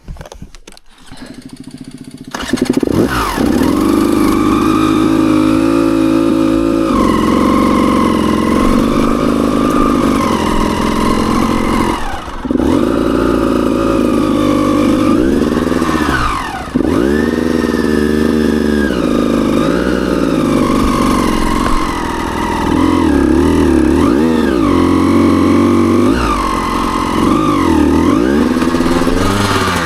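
Dirt bike engine starting about two seconds in, then running with repeated throttle blips, its pitch rising and falling, dipping briefly twice.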